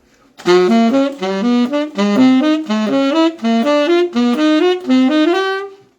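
Solo saxophone playing a chain of triad arpeggios, three notes on each root, with the root moving up chromatically so the run climbs steadily, ending on a held note.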